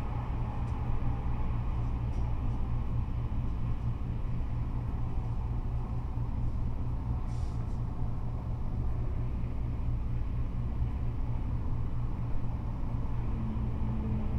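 Steady low rumble of freeway traffic, with cars and trucks running along the interstate. A brief faint hiss comes about seven seconds in.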